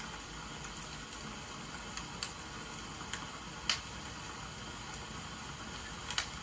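Wood fire crackling, with a few sharp irregular pops (the loudest nearly four seconds in), over a steady hiss of rain.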